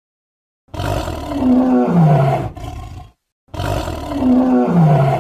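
Tiger roaring twice, the same deep roar repeated, each falling in pitch and lasting about two and a half seconds.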